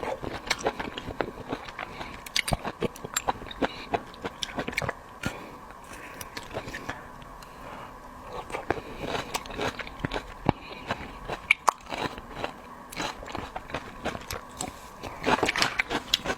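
Close-miked eating sounds: a person biting and chewing food, with repeated crunches and small wet clicks.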